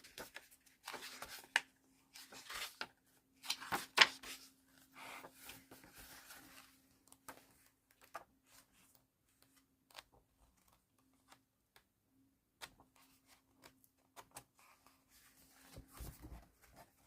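Pages of a hardback book being turned and handled: paper swishes and rustles, busiest in the first seven seconds, then scattered light clicks and taps, over a faint steady hum.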